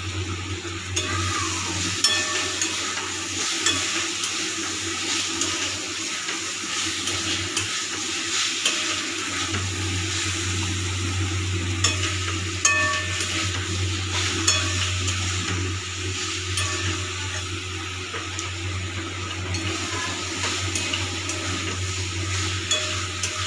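Potato pieces sizzling in oily masala in a metal kadai while a metal spatula stirs and scrapes them, with scattered sharp clinks of the spatula against the pan. The masala has cooked down until the oil separates.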